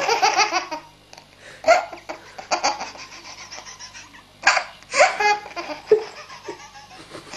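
Baby laughing in a string of separate bursts with short quiet gaps between them.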